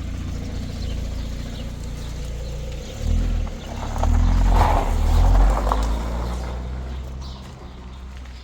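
A motor vehicle's engine running with a low rumble. It grows louder about three seconds in, then fades away near the end.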